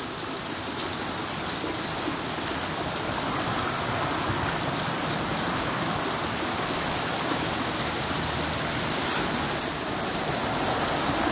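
Outdoor ambience: a steady rushing noise like running water, with a continuous high insect drone and a few faint scattered ticks.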